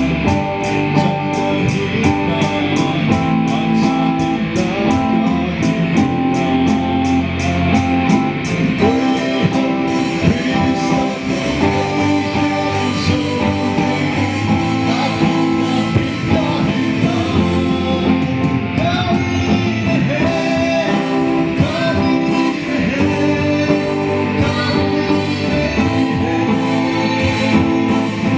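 Live band music led by guitar, with a steady ticking beat at the start and a voice singing a melody from about a third of the way in.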